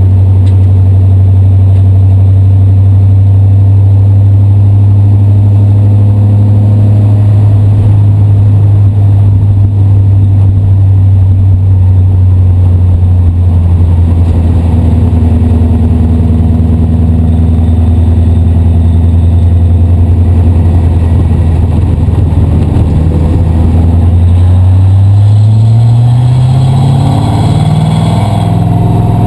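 Race car engine running loud at steady revs for most of the time, then rising in pitch in several steps over the last few seconds as the revs climb.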